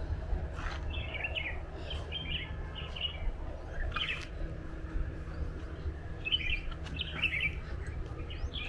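Small birds chirping in short bursts of quick notes, several times, over a steady low rumble.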